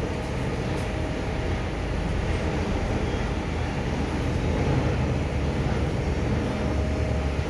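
Machinery running steadily with a low rumble.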